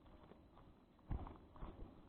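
Footsteps on a forest path: a few dull thuds beginning about a second in, the first the loudest.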